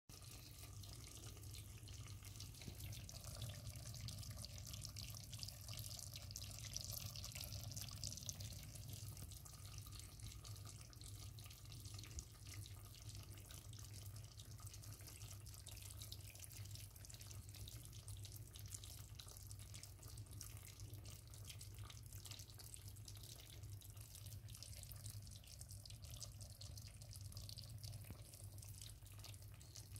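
Chicken wings sizzling in oil in a stainless steel pot, a faint steady crackle with a low hum underneath.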